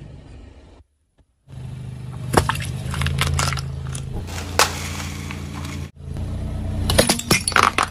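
Car engine running at low speed while a tyre rolls over and crushes objects, with sharp cracks and crunches, a cluster of them near the end. The audio cuts out briefly about a second in.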